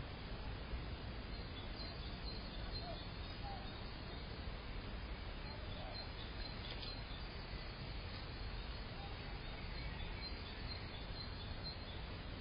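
Faint, scattered chirps of small garden birds over a steady outdoor background hiss.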